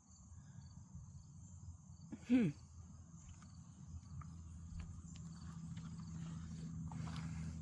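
Insects, such as crickets or katydids, give a steady high-pitched drone in the garden over a low rumble of movement. About two seconds in there is one short falling vocal sound.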